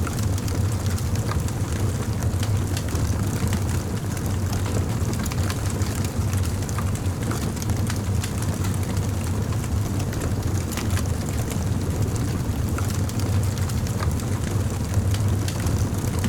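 Campfire burning, with a steady low roar and scattered small crackles and pops throughout.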